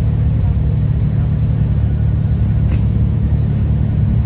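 A car engine running steadily at a low, even pitch.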